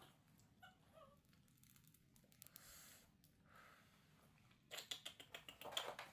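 Faint, short high squeaks, typical of a baby monkey, about a second in; then a second of quick rustling and tapping near the end.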